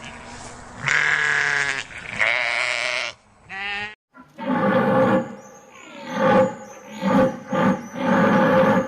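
Animal calls in two clips joined by a short cut: two drawn-out calls, then a run of about five calls in quick succession.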